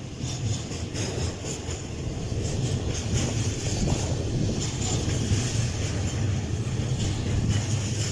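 Freight train running past on the rails, a steady low rumble with faint irregular clicks.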